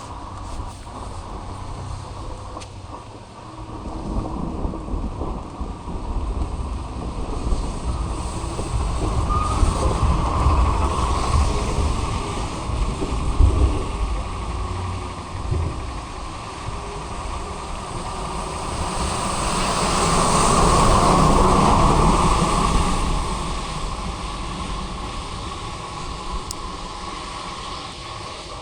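A heavy vehicle passing in heavy rain: a steady low rumble and hiss that swell to a peak about two-thirds of the way through, then fade.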